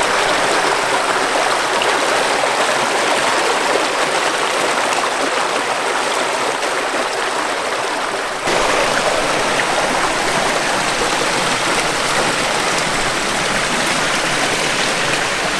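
Steady rush of running water, a stream or small waterfall splashing. About eight seconds in it changes abruptly and becomes a little louder.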